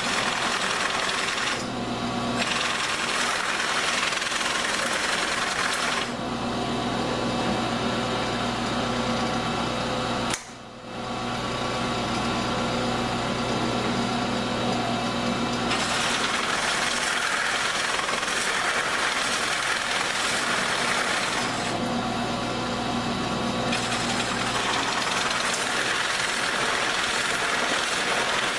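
Power tool running a 2-inch bit through a wooden drawer front, cutting one end of a drawer-pull opening; the noise shifts as the bit works through the wood and briefly drops out about ten seconds in.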